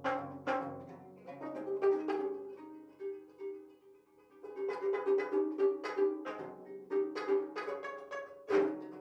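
Sanjo gayageum, the Korean twelve-string zither, played solo: plucked notes that ring and fade, with one note plucked again and again about three times a second through the middle, and a strong pluck near the end.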